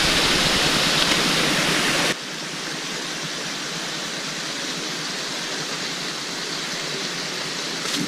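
Steady rushing noise that changes abruptly about two seconds in to a quieter, thinner hiss.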